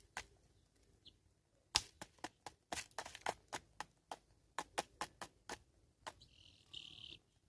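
Helmeted guineafowl pecking at food on a hard surface: a run of sharp, irregular taps, several a second. Near the end comes a short, hissy rasp.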